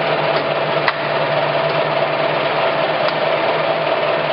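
Clausing Colchester 17" x 80" engine lathe running with its threading feed engaged and the spindle turning: a steady mechanical whine and hum from the headstock gearing and drive, with a faint click about a second in and another about three seconds in.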